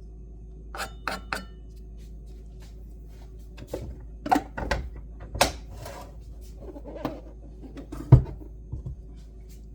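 Scattered clinks and knocks of kitchen utensils and cookware: three quick taps about a second in, a cluster of clatters around four to five seconds, and a louder thump just after eight seconds.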